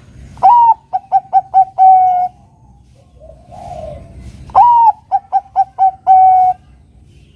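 Zebra dove (perkutut, Bangkok type) singing its manggung cooing song twice. Each phrase opens with a rising note, runs into four short quick coos, and ends on a long held coo.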